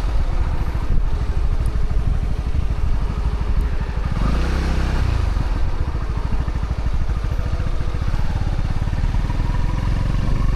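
Honda CB125R's single-cylinder engine through its stock exhaust, running at low revs with a steady, even beat, with a short rise and fall in revs about four seconds in.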